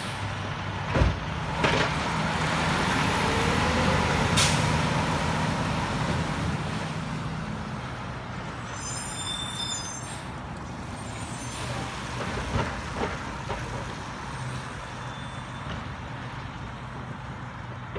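A garbage truck's diesel engine running, swelling over the first few seconds and then easing back, with a few sharp clanks early on and an air-brake hiss. A brief high squeal comes about halfway through.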